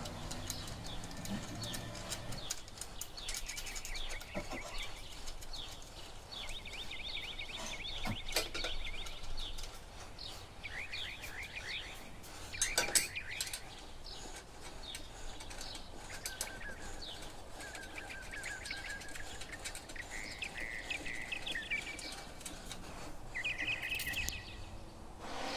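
Small birds chirping and trilling in quick repeated phrases, with a few sharp clicks and knocks of bolts and tools being handled. A low hum stops a couple of seconds in.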